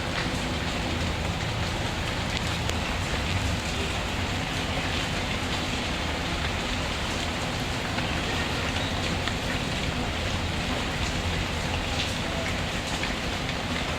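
Steady rain falling: an even, constant hiss with scattered faint ticks.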